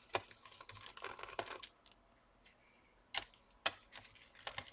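Light clicks and small metallic taps of a precision screwdriver working the tiny screws that hold a laptop's cooling fans. They come in a quick scatter, stop for about a second, then return as a few sharper single clicks near the end.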